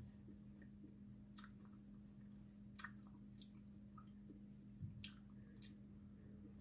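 Very faint mouth sounds of chewing a watermelon ice bar: about five short, sharp clicks and smacks spread across several seconds. A low, steady hum runs underneath.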